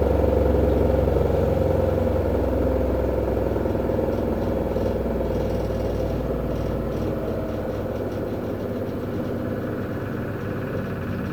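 V-Zug Unimatic SL washing machine running, a steady mechanical hum with a light rattle that slowly gets quieter.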